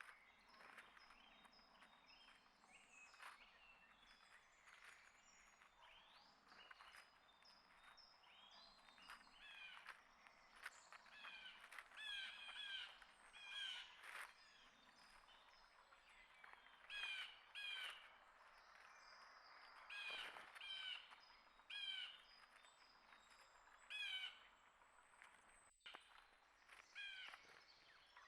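Several wild birds calling outdoors: short, repeated harsh calls in quick pairs and threes, mixed with thin high chips and whistles from smaller birds.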